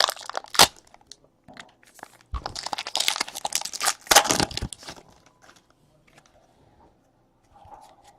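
Wrapper of a trading card pack crinkling and tearing open: a few sharp clicks at first, then about two seconds of dense crackling that stops with a short break just before the end, after which it falls quiet.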